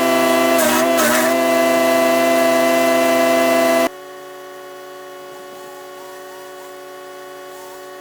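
Chipease D1500E wood chipper's 420cc four-stroke engine running hard while it chips branches. Its pitch sags briefly with a crackle of chipping about a second in as the engine bogs under the load, then recovers. The sound cuts off abruptly about four seconds in, giving way to quieter background music.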